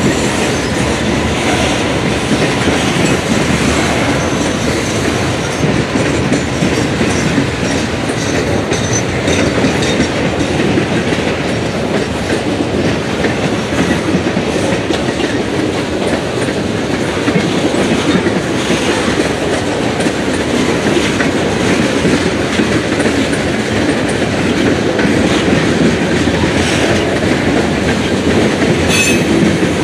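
Freight cars rolling past with a loud, steady rumble, their steel wheels clattering over the rail joints.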